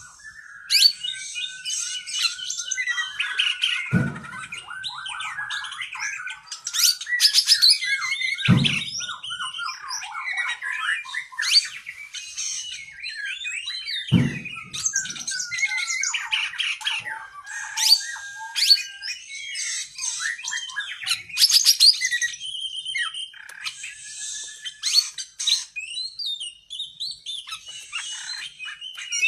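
Oriental magpie-robin (kacer) singing a long, unbroken song of varied whistles, fast trills and harsh notes. Three dull thuds break in, about four, eight and fourteen seconds in.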